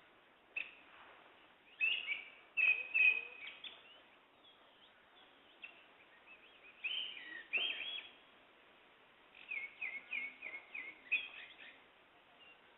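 Wild songbirds singing in short chirping phrases that come in bouts with quiet gaps between them. Near the end there is a quick run of short repeated notes.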